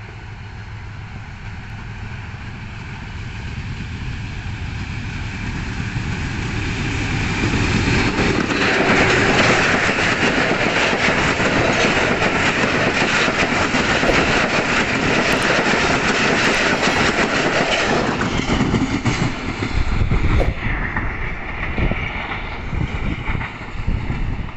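Pakistan Railways express passenger train passing at speed. The diesel locomotive grows louder over about eight seconds as it approaches, then the coaches' wheels on the rails make a loud, steady rush for about ten seconds, easing off as the train draws away.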